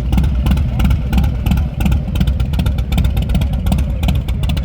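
Harley-Davidson V-twin motorcycle engine running, a loud, steady stream of quick low exhaust pulses.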